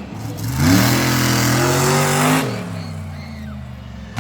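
Monster truck engine revving up about half a second in, holding high revs for about two seconds, then dropping off and fading away.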